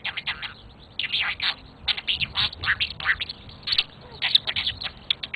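Pet budgie chattering and warbling: a fast, uneven run of short chirps and squawks with brief pauses.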